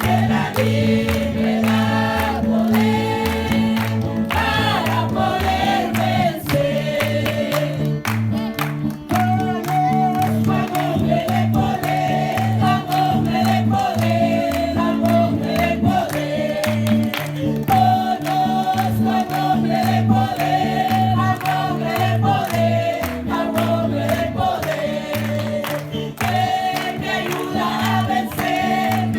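A group singing a gospel revival chorus over band accompaniment, with a steady bass line and drum beat throughout.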